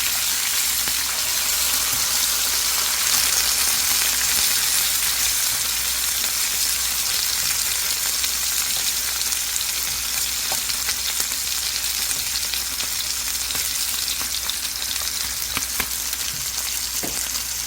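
Scored pork belly sizzling as it grills: a dense, steady frying hiss with scattered little pops of spitting fat.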